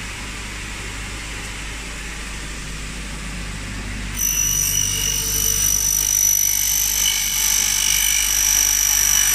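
Saw motor of a Faster 66 double-head aluminium cutting machine running steadily. About four seconds in, the circular blade of head number 1 bites into a thick Sigma aluminium profile and the sound jumps to a loud, steady, high-pitched ringing whine of the cut.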